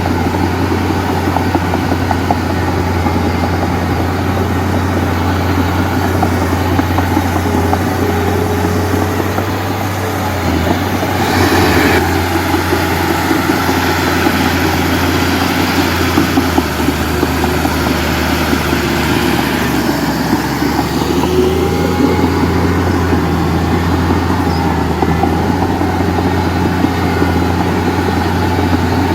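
Heavy diesel engine running steadily at a low, even drone. About eleven seconds in there is a brief, louder rush of noise.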